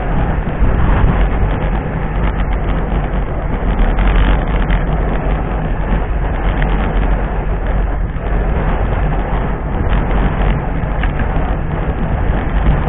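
Wind buffeting the microphone of a camera carried on a moving bicycle: a loud, steady rumbling rush.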